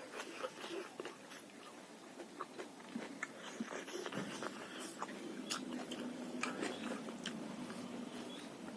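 Close-miked mukbang eating: a person biting and chewing roasted pork, leafy salad and rice, with irregular clicks and crunches of the mouth and food. A faint steady hum comes in about halfway.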